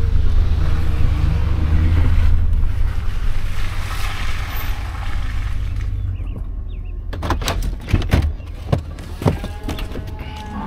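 Steady low vehicle engine rumble with a hiss over it, then several sharp knocks in the second half.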